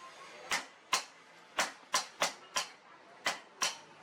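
Hand hammer striking steel on an anvil: eight sharp, ringing blows at an uneven pace, about two a second.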